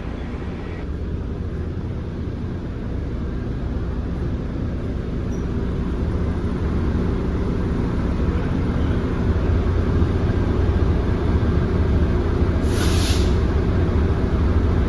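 Passenger train at a station platform: a low rumble that grows slowly louder, with a short burst of air hiss about thirteen seconds in.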